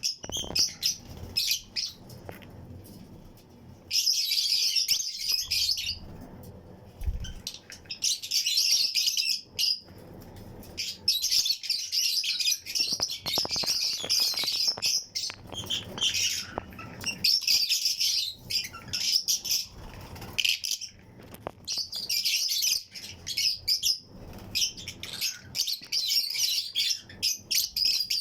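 A colony of Fischer's and lutino lovebirds chattering in shrill, high chirps that come in repeated bouts of a second or two with short pauses between them.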